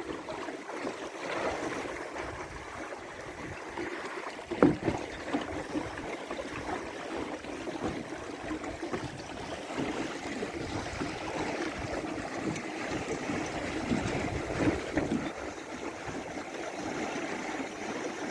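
Water splashing and lapping against the hull of a small wooden Mirror sailing dinghy under way, an uneven rushing that rises and falls. A single sharp knock sounds about four and a half seconds in.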